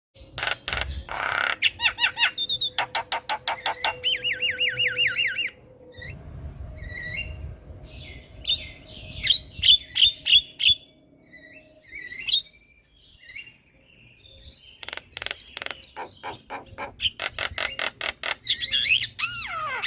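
Javan myna (jalak kebo) singing: a fast, varied string of repeated sharp notes, a quavering trill, whistled notes and squawks. There is a quieter pause about two-thirds of the way through, then rapid chatter and a falling whistle near the end.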